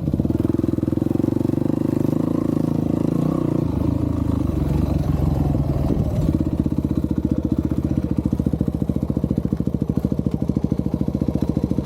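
Dirt bike engine running with a rapid, even pulse. The sound wavers about two seconds in and settles back into a steady beat about six seconds in.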